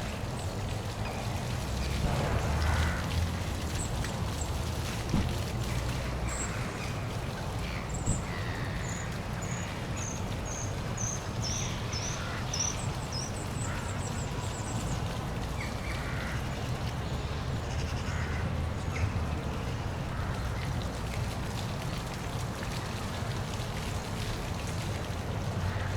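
Steady rush of a park waterfall with a low rumble underneath, and ducks quacking now and then. A small bird gives a quick run of high, short chirps, falling slightly in pitch, from about a third of the way in to just past halfway.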